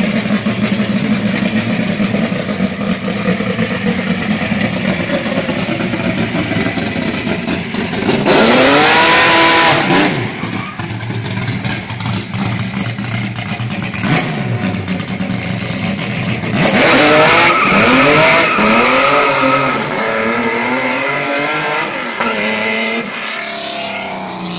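Chevrolet Chevy coupé's engine running steadily, then revved hard twice as the car launches with wheelspin, the revs rising in each burst. The sound fades near the end as the car drives away.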